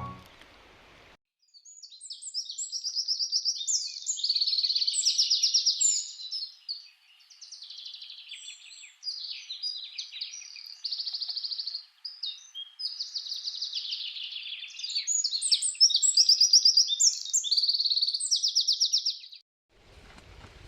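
Songbirds singing, a run of rapid high trills and chirps that starts about a second and a half in and stops shortly before the end.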